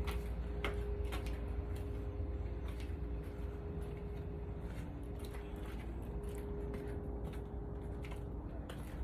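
A 1953 Chevrolet Bel Air's engine idling as a steady low rumble, with a few light clicks over it.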